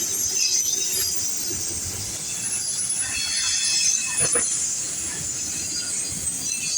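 CSX auto rack freight cars rolling past, their steel wheels squealing in thin high tones over a steady rumble, with a single knock about four seconds in.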